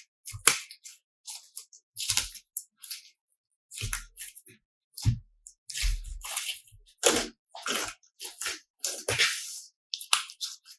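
Slime being squished and worked by hand: short wet squelches and crackles at irregular intervals, about one or two a second, some with a low thump.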